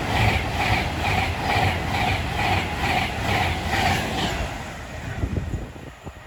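Train passing at the platform, its wheels clattering in an even rhythm of a little over two beats a second. The clatter stops about four seconds in and the rumble fades away.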